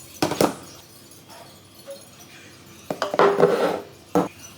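Glass dishes or containers clinking and knocking against each other and the counter while being handled in a kitchen: two sharp clinks near the start, a short clatter with a brief ring about three seconds in, and one more knock near the end.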